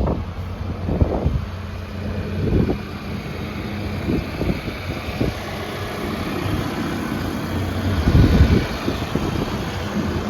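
Case 580N backhoe loader's diesel engine idling steadily, with wind gusting on the microphone, strongest about eight seconds in.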